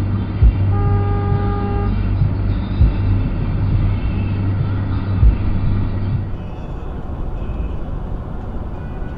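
A car horn sounds one steady honk of just over a second, about a second in, over the steady low rumble of a vehicle's engine and road noise with a few dull thumps. It is a honk at a driver who is slow to pull away on a green light.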